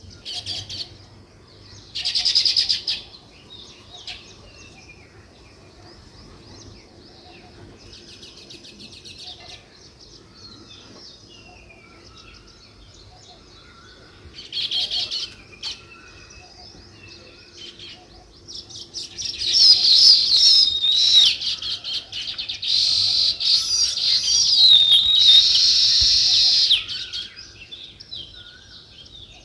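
Small songbirds chirping in short separate bursts, then a loud, dense chattering chorus for about seven seconds in the second half, which drops back to scattered chirps near the end.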